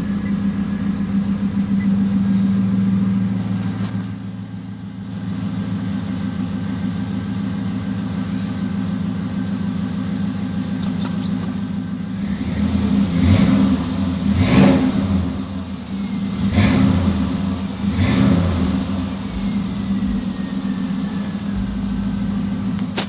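A 5.3-litre V8 swapped into a Cutlass idling steadily soon after a cold start, then blipped four times in quick succession in the second half.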